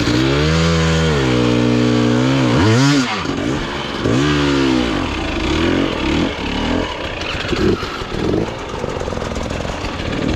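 Dirt bike engine revving hard under load. It holds high revs for a couple of seconds, drops and picks up again twice, then runs in short, uneven throttle blips.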